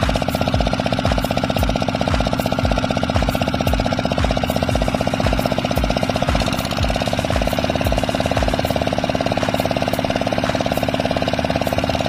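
Kubota 8 PK single-cylinder diesel engine running steadily with a regular low chug, after its seized piston has been freed; its speed rises a little about six seconds in.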